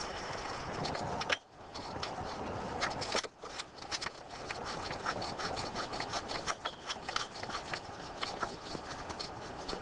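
Ratchet wrench clicking through rapid short strokes while the brake master cylinder's 15 mm mounting nuts are run down, with brief pauses about a second and a half and three seconds in.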